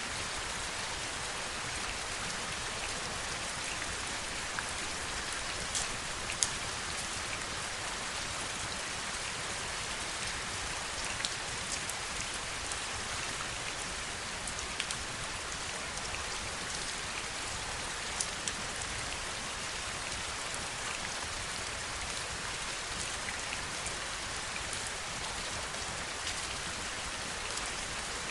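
Steady heavy rain falling, a dense even hiss with scattered sharper drop ticks, a few of them louder.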